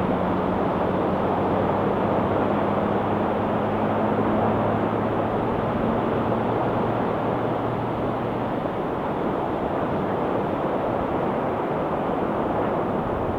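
Ocean waves breaking on a rocky shore, a steady unbroken surf noise. A low steady drone runs under it and fades out about halfway through.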